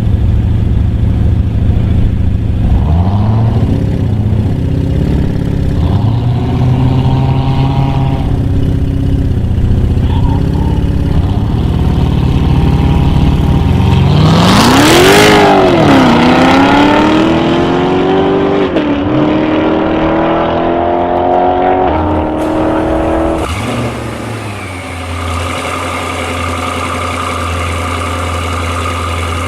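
Audi RS6 C7 Performance's 4.0-litre twin-turbo V8 under hard acceleration. About halfway through, the revs rise sharply and fall back. The pitch then climbs in steps through a couple of upshifts, before the engine settles to a steady idle near the end.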